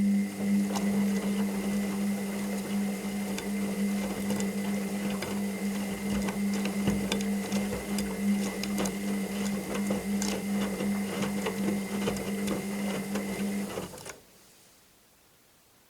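Washing machine running a stretch of its cycle: a steady motor hum with frequent clicks and rattles over it, cutting off near the end.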